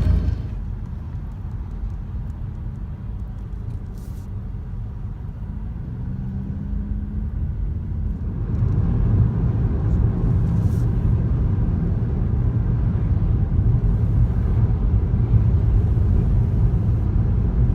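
Motor vehicle running, a steady low engine hum and road rumble that grows louder about eight seconds in.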